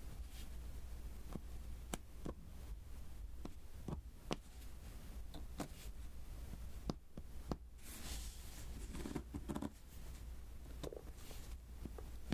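Light, sharp taps and clicks, irregular at about one or two a second, of a diamond-painting pen pressing small resin drills onto the sticky canvas. About eight seconds in comes a brief rustling scrape.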